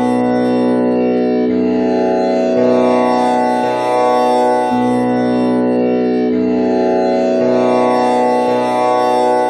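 Tanpura drone in B, tuned with komal Ni. Its strings are plucked one after another in a repeating cycle, a new pluck about every second or so, and each note rings on into the next with bright, steady overtones.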